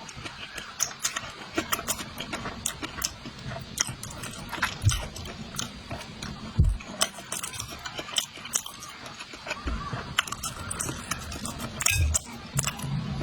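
A person eating braised rice noodles close to the microphone: irregular chewing and wet mouth clicks, with a few low thumps.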